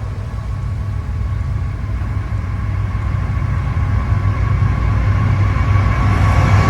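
Diesel locomotives of a freight train running with a heavy, steady low rumble that grows louder as the train comes closer. A high steady tone joins in near the end.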